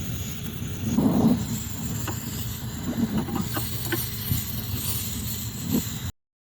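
Outdoor wind rumbling on the microphone, with a few light clicks and knocks of handling. The sound cuts off suddenly near the end.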